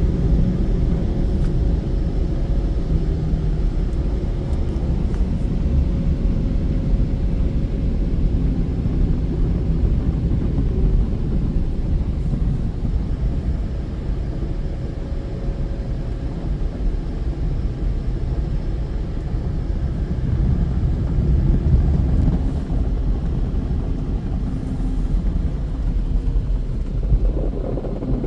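Car wash tunnel machinery running around the car, heard from inside the cabin: a loud, steady, deep rumble with a faint steady hum above it.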